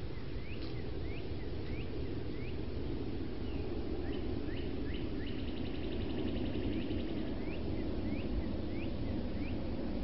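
Songbird giving short upslurred chirps, one every half second to a second, joined by a rapid trill for about two seconds in the middle, over a steady low rumble.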